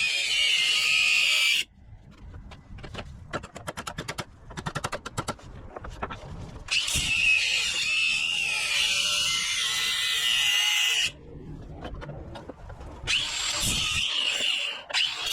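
A power tool running in three long bursts, each with a high whine. Between the first two bursts comes a quieter run of rapid, even clicking.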